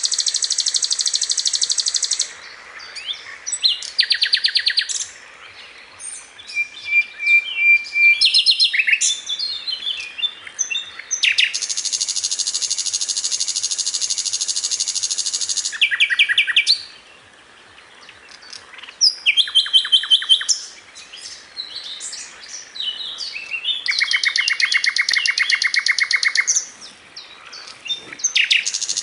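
A sikatan londo flycatcher singing. Long, fast trills of evenly repeated high notes lasting several seconds alternate with shorter, varied chattering phrases and a brief steady whistle.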